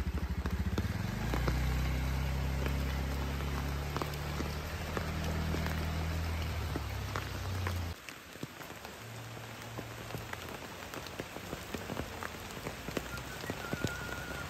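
A motor scooter's engine runs steadily over heavy rain and cuts off about eight seconds in. After that only the rain is left, falling steadily, with scattered drops striking water and leaves.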